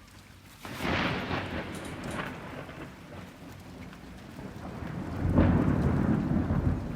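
Thunder: a sudden sharp crack under a second in, trailing off into a rolling rumble, then a second, louder deep rumble swelling about five seconds in. Rain falls throughout.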